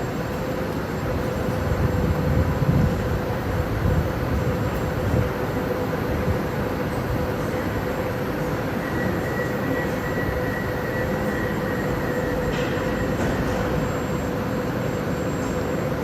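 Metro train running on the rails: a steady rumble with a steady whine, louder and heavier for a few seconds near the start.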